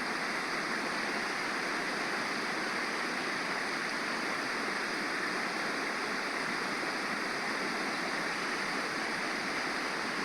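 Stream water flowing and rushing over rocks, a steady even rush with no breaks.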